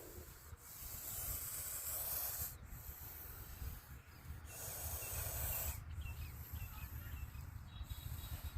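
Russell's viper hissing defensively when threatened: long, loud breathy hisses, like a pressure cooker whistle. The two strongest come about a second apart in the first half and around five seconds in, with fainter hisses between them.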